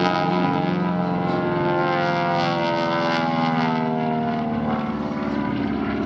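Propeller airplane's piston engine running as it flies past, its pitch shifting with the pass.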